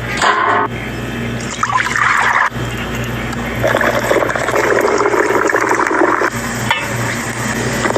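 Water rushing and splashing, broken by abrupt cuts about two and a half and nearly seven seconds in.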